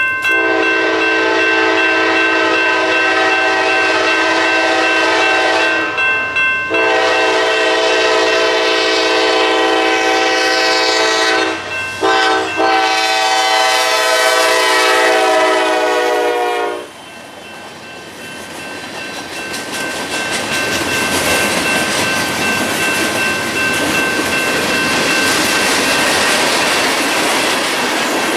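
Norfolk Southern diesel freight locomotive blowing its multi-chime air horn in long blasts, broken briefly twice, its pitch dropping as it passes. The horn stops about 17 seconds in, and the loaded freight cars rumble and clatter past, growing louder.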